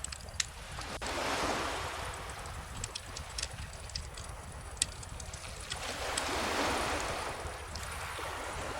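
Bonfire crackling with scattered sharp pops over calm ocean waves, two gentle swells of surf washing in about five seconds apart.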